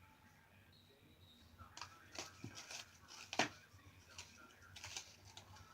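A pet bird tapping and clicking with its beak on objects: irregular light, sharp taps that start about two seconds in, with one louder knock in the middle.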